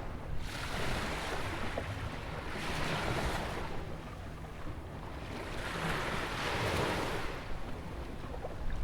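Atlantic surf: small ocean waves breaking and washing up the shore, surging and ebbing about every three seconds, over a steady low rumble.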